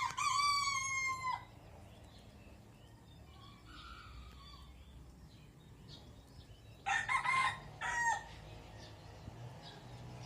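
A red junglefowl rooster (labuyo, wild chicken) crowing twice: a short crow at the start and another, broken into two parts, about seven seconds in.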